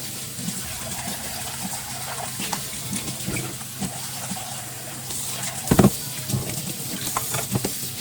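Kitchen tap running water into a sink, with small clinks of dishes being handled and one louder knock a little before six seconds in.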